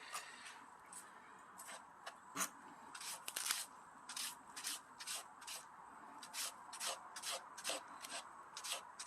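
A hand-held green-onion shredder drawn again and again through a thick green onion stalk, slicing it into thin strips: a series of short scraping strokes, about two a second.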